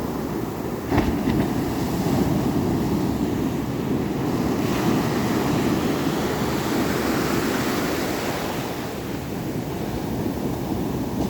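Ocean surf, waves breaking and washing in, with wind buffeting the microphone. A short thump about a second in, and a wave builds and washes through over the middle of the stretch.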